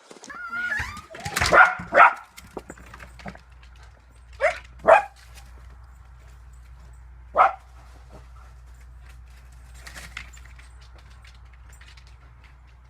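A dog barking: about five short, sharp barks, two close together near the start, two more a few seconds later, and a last one past the middle.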